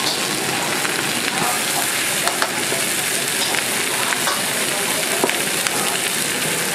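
Leafy greens sizzling as they fry in a hot pan over a gas burner: a steady frying hiss with a few sharp clicks.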